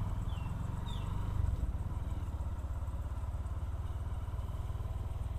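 Motorcycle engine running steadily, heard from the rider's seat as a low, even throb.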